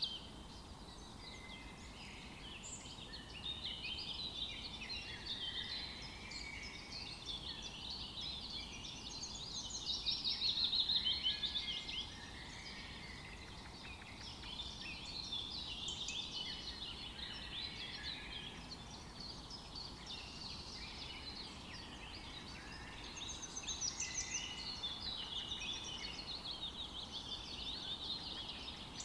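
Several songbirds singing over one another in a forest dawn-chorus, with fast trills that swell around ten seconds in and again about twenty-four seconds in, over a faint steady background hiss.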